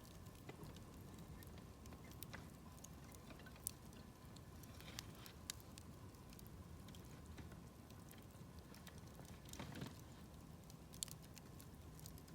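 Wood campfire burning quietly with scattered small crackles and pops. A couple of sharper pops come a little under four seconds in and near the end, and a brief louder flare of crackling comes just before it.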